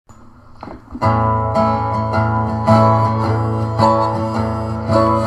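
Instrumental intro of a bluegrass gospel song, led by strummed acoustic guitar, starting about a second in.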